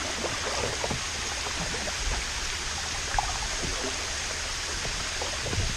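Steady rushing of water from a small waterfall.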